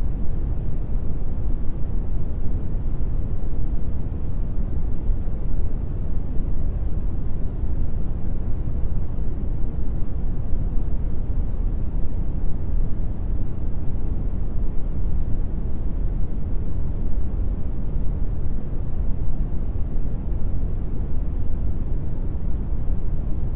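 Steady brown noise: a continuous, even, deep rumbling hiss, strongest in the bass and fading toward the treble, with no change.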